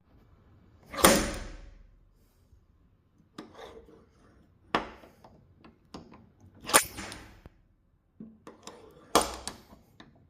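Paintless dent repair tapping on a car body panel: a series of sharp taps spaced irregularly a second or two apart, each with a short metallic ring, as the panel is tapped down to level the dent.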